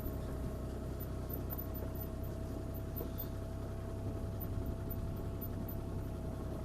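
CAT 303C CR mini excavator's diesel engine running steadily at an even pitch, with a faint steady whine above the engine hum.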